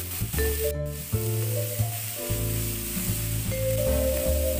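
Chopped cauliflower and onion sizzling in oil in a frying pan as a spatula stirs them, over background music with a steady bass line.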